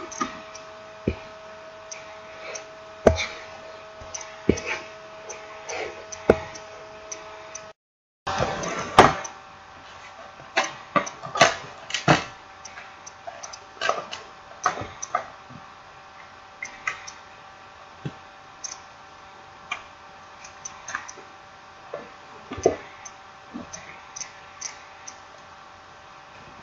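Irregular small clicks and taps of a smartphone and its small parts and tools being handled during reassembly, over a steady faint hum. The sound drops out completely for a moment about eight seconds in.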